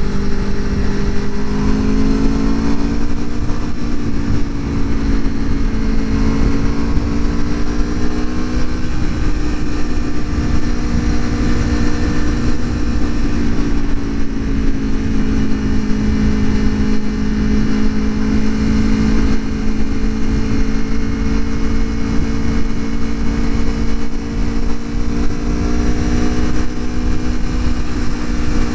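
2021 Aprilia Tuono Factory's V4 engine through its stock exhaust, running at a steady cruise with small rises and falls in revs, over low wind rush on the microphone.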